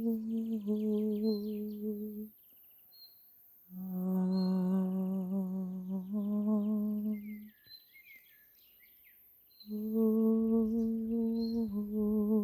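A person humming long, held notes, each phrase stepping to a second pitch partway through, in three phrases with pauses between. Birds chirp in the gaps, most busily in the second pause.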